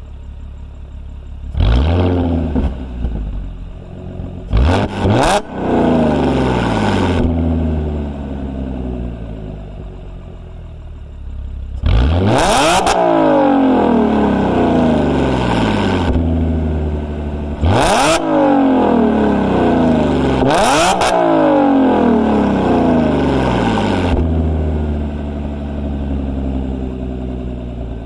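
2014 Audi S4's supercharged V6 through an Armytrix valve-controlled exhaust, revved repeatedly from a warm idle. There are quick blips and a few longer held revs, each dropping back to idle, with the exhaust valves open and loud.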